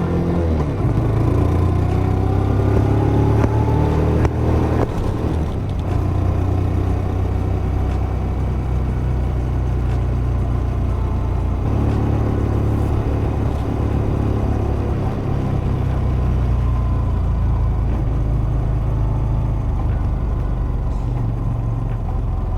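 Honda Super Cub C125's single-cylinder four-stroke engine running through its stock exhaust, its pitch rising and falling as the revs change, with a drop about five seconds in.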